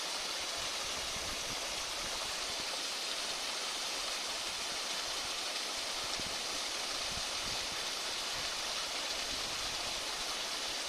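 Steady rush of flowing water, an even hiss that neither rises nor falls.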